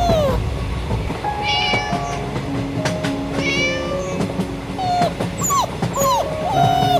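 Several short, high-pitched whining cries of a small animal, sliding in pitch, over a train's low rumble and steady held tones.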